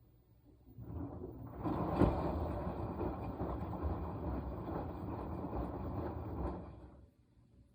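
Washing machine running a burst of its wash cycle: the drum turns with water and laundry churning for about six seconds, stepping up in loudness a second in, then stopping.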